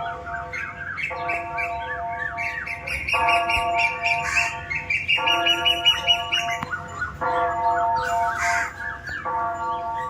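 Birds chirping and squawking over steady held tones that stop and restart abruptly every couple of seconds, like an edited or looped backing track.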